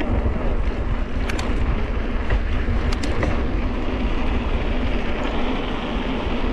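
Steady rushing wind buffeting the microphone while riding a bicycle, with a low rumble and a couple of faint ticks.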